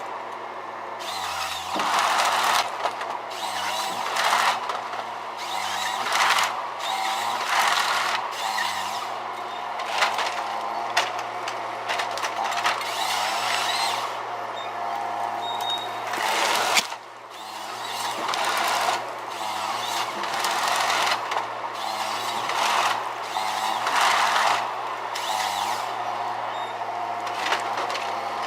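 Tree-felling machine working: a steady engine hum with a burst of harsh sawing or cutting noise about every two seconds. The sound breaks off and restarts about two-thirds of the way through.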